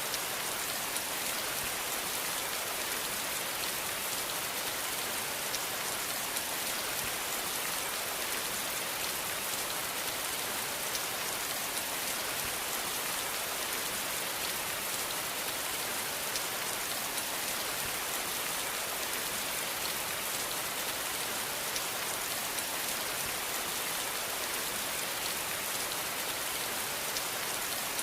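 Steady rain falling, a dense even hiss of drops with fine patter on a surface.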